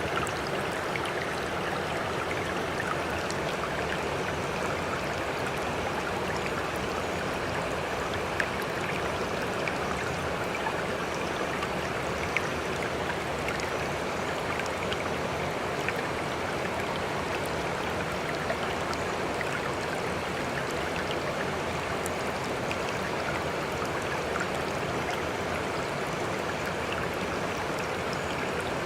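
Steady, even rush of moving water with scattered small splashes and drips.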